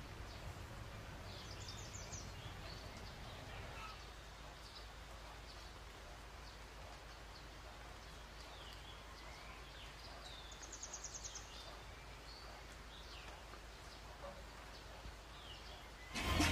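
Faint birds chirping over a low steady hum, with two quick trills, one about a second and a half in and one about eleven seconds in. Louder music cuts in abruptly near the end.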